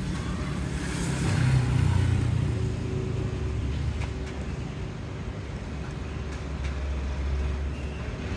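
Low rumble of road traffic: a motor vehicle's engine swells and passes about a second in, then a steady low hum carries on.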